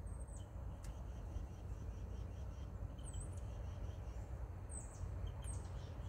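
Outdoor ambience: a steady low rumble with a few short, high-pitched bird chirps, about three seconds in and twice more near the end.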